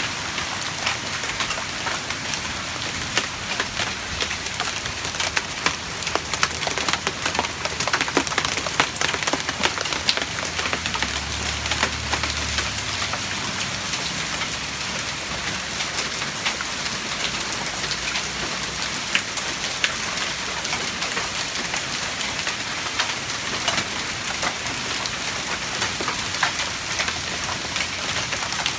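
Quarter-size hailstones falling hard: a dense, steady patter made up of many sharp individual impacts.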